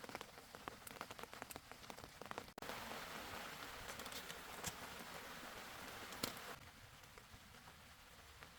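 Rain falling: scattered sharp drop ticks at first, then, after an abrupt change about two and a half seconds in, a louder steady hiss of rain that falls back quieter about six and a half seconds in.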